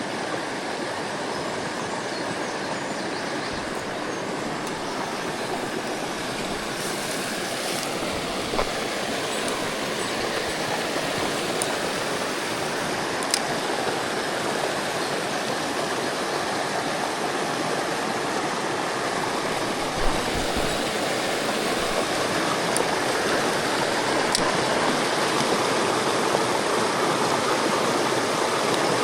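Mountain stream water rushing steadily, slowly growing louder, with a few faint clicks.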